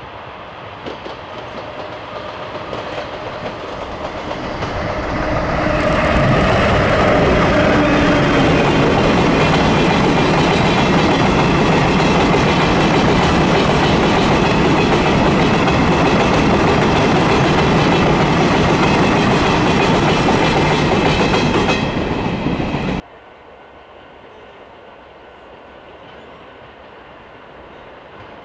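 An electric train passing close by on the track: its running noise builds over the first few seconds, stays loud for about fifteen seconds, then cuts off suddenly, leaving a quieter steady background.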